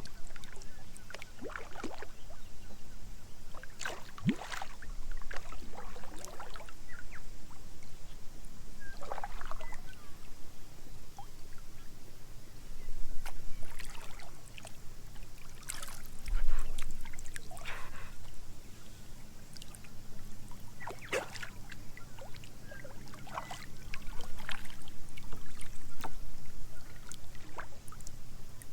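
Small splashes and trickling water around a kayak, coming irregularly every second or few over a low steady background rumble.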